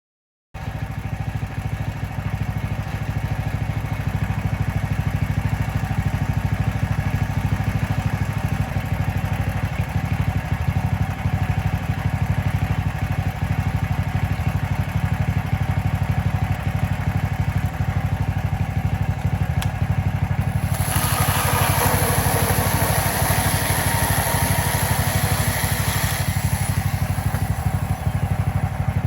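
Mechmaxx band sawmill's engine running steadily. From about two-thirds of the way through, for some six seconds, a louder hissing rasp joins it, typical of the band blade cutting through the log.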